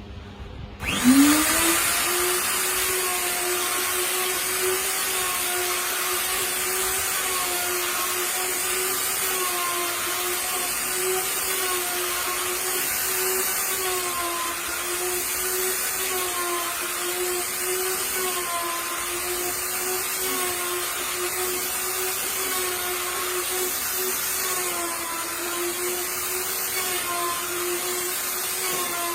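A wood router's motor starts up about a second in, its whine rising quickly to full speed. It then runs steadily at high speed with a loud hiss, the pitch wavering slightly.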